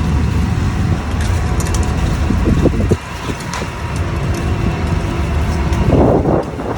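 A scallop boat's engine running steadily with a low rumble, with wind on the microphone and scattered knocks. There is a louder rush of noise about six seconds in.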